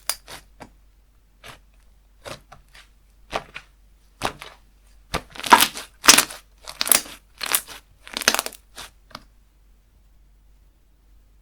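Slime being squeezed and pressed by hand, giving a run of short crackling, crunchy pops, loudest in the middle and stopping about nine seconds in.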